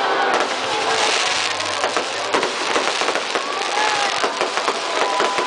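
Fireworks display popping and crackling in rapid, irregular cracks over a dense noisy wash, with crowd voices underneath.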